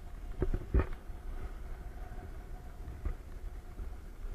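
Low rumbling wind noise on an action camera's microphone, with a few knocks, the loudest about a second in and another near three seconds. A faint steady hum lies underneath.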